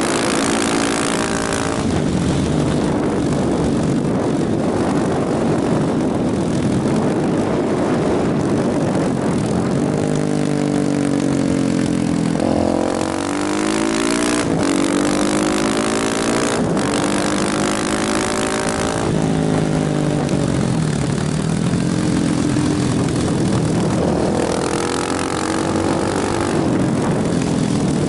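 KTM motorcycle engine under way, its pitch climbing under acceleration and dropping at gear changes and when the throttle is rolled off, several times over. A steady rush of wind and road noise runs underneath.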